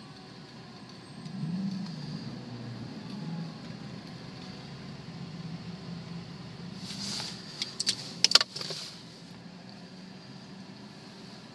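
Steady low hum of a car on the road, heard from inside the cabin. A little past the middle, a brief cluster of sharp rattling clicks, the loudest sound here.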